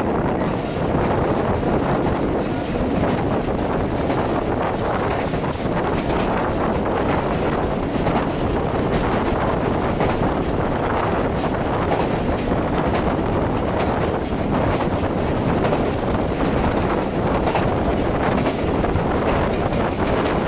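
Passenger train running steadily across a bridge, heard from the moving carriage: a continuous rumble of wheels on rails mixed with wind buffeting the microphone.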